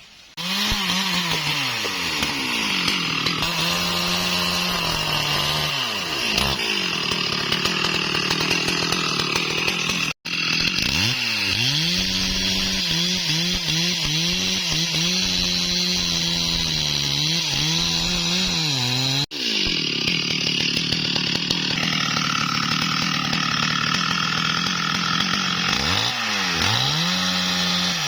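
STIHL MS 382 two-stroke chainsaw running at high revs while cutting bayur (wadang) wood. Its pitch sags under load and climbs back again and again as the chain bites. The sound drops out for an instant twice.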